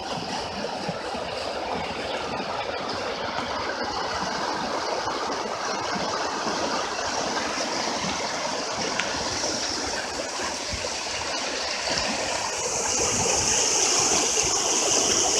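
Storm floodwater rushing in a steady, even flow; the rush grows louder about three quarters of the way through.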